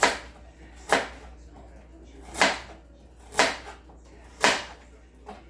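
Kitchen knife chopping vegetables on a cutting board: five sharp chops, roughly one a second, with a small tap near the end.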